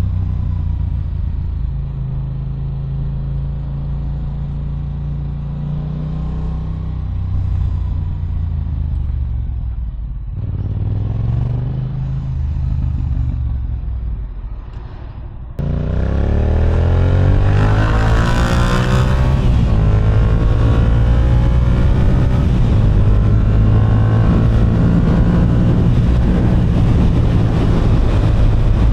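Motorcycle engine running at low, steady revs for the first half. About halfway through the sound jumps abruptly louder: the engine revs up as the bike accelerates, with heavy wind noise, then holds a high, steady note.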